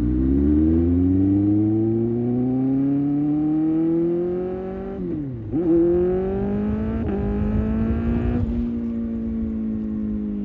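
2024 Kawasaki ZX-6R's 636 cc inline-four engine accelerating, its pitch climbing steadily, with a quick dip and recovery in revs about five seconds in as it changes up a gear. It then pulls again, with another small step near seven seconds, and levels off and eases slightly near the end.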